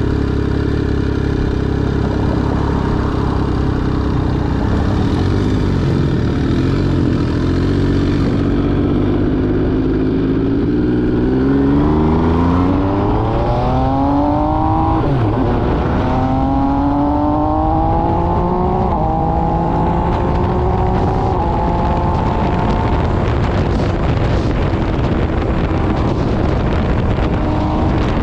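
MV Agusta Brutale 800RR's three-cylinder engine through an SC Project exhaust, heard while riding. It runs steady, then revs up with a sharp upshift about halfway through, pulls up again and shifts once more, then holds a steady cruise with wind rushing over the microphone near the end.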